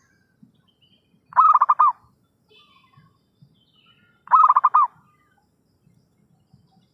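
Zebra dove cooing: two short bursts of rapid staccato coos about three seconds apart, with faint chirping between them.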